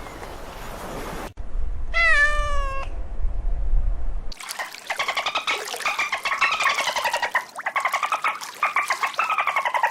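Rushing noise that cuts off after about a second, then a cat's single meow about two seconds in. After another cut comes a long stretch of rapid, pulsing cat calls that rise and fall in pitch.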